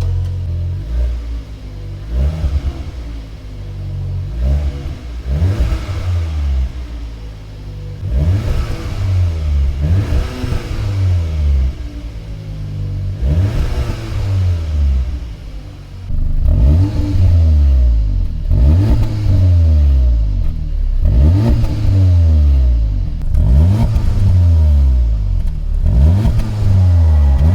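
CUPRA Ateca's turbocharged 2.0 TSI four-cylinder engine revved again and again through its exhaust, in a run of short blips that each rise and fall. The blips get louder about halfway through.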